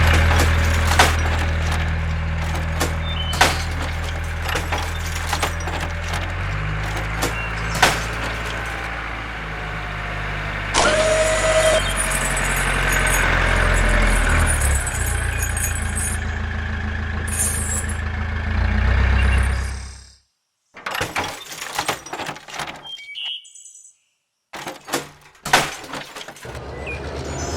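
Vehicle engine running with a low steady drone that shifts in pitch twice, over scattered knocks. It cuts off abruptly about twenty seconds in, leaving sparse clicks and knocks.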